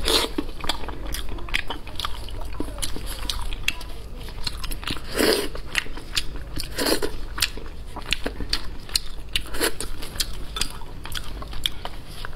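Close-miked chewing and biting of braised lamb's head meat, a steady run of quick wet mouth clicks. A few louder crunches come about five, seven and ten seconds in, while gloved hands pull the head apart.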